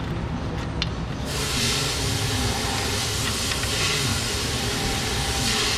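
A steady hiss of gas released under pressure starts about a second in, holds evenly, and cuts off sharply near the end.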